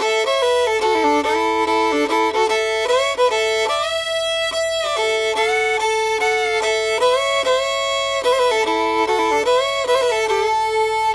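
Background music: a fiddle playing a melody with sliding notes.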